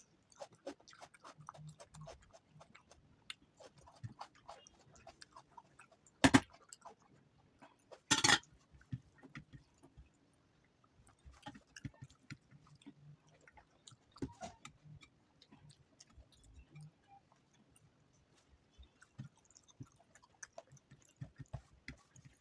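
Close-miked chewing and wet mouth sounds of a person eating paratha, rice and soft vegetable dishes, with many small clicks and smacks. Two much louder sharp sounds stand out, about six seconds in and again two seconds later, the second a little longer.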